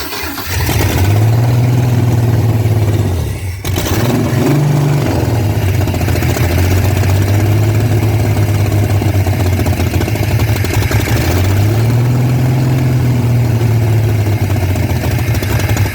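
Old car engine catching about a second in and running loudly, faltering briefly near four seconds, then carrying on as the revs are raised and lowered a few times. The ignition still needs a new distributor cap and rotor button.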